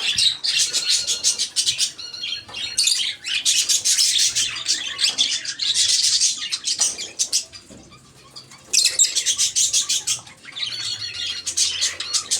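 Flock of parakeets and lovebirds chattering and squawking continuously with rapid high-pitched notes, falling away briefly about seven seconds in before starting up again loudly.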